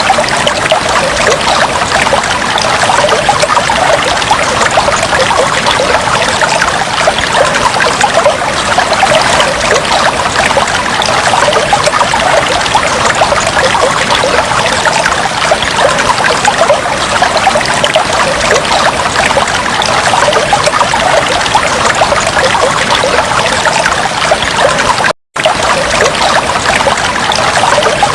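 Aquarium water trickling and bubbling steadily, dense with small bubbles and splashes. It cuts out for a split second near the end.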